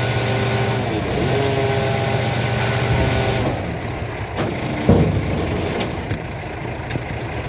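Scania hooklift truck's diesel engine running with a steady pitched tone that dips briefly about a second in, then falls back to a lower, plainer running sound about halfway through. A single loud clunk comes about two-thirds of the way in.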